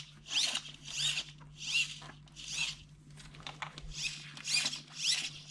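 RC steering servo whining in a rapid series of short high-pitched whirs, one or two a second, as the steering is swung from side to side. The servo seems to jump at one point in its travel, which the owner takes for one or two stripped gear teeth.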